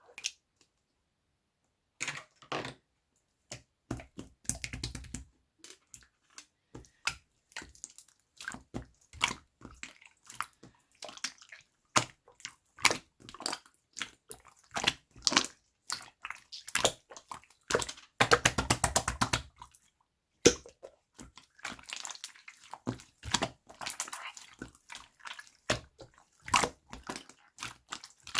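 Slime being squished and pressed by hand, making irregular wet clicks and pops. It starts after about two seconds of silence, and there is a run of fast crackles about eighteen seconds in.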